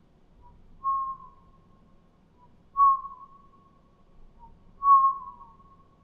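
A person's vocal imitation of a burrowing owl: three short whistle-like hoots about two seconds apart, each dipping slightly in pitch at the end.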